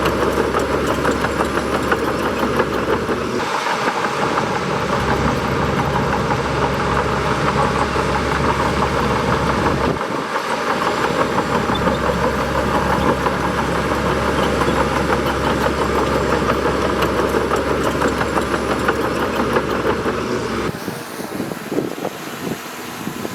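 Bulldozer's diesel engine running steadily under work. Its low rumble briefly thins twice. About 21 seconds in, it cuts off abruptly to a quieter background.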